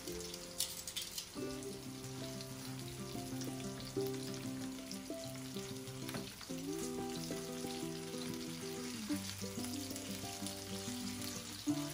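Salmon pieces sizzling in hot oil in a frying pan, with a few clicks of metal tongs against the pan as the pieces are turned. Background music with a melody plays over it.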